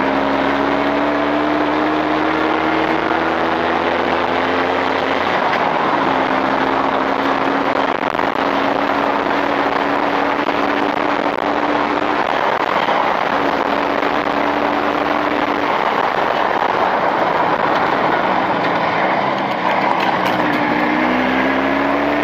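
Jawa motorcycle's two-stroke engine running steadily during break-in on newly fitted Chinese cylinders, its revs climbing again near the end. It runs cleanly without seizing at around 100 degrees.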